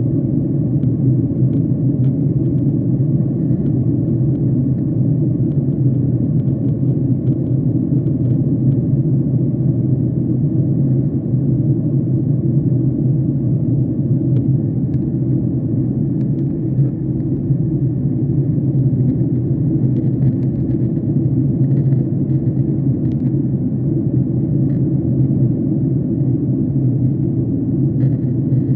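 Jet airliner cabin noise: a steady low drone of the engines and the airflow past the fuselage, heard from a passenger seat.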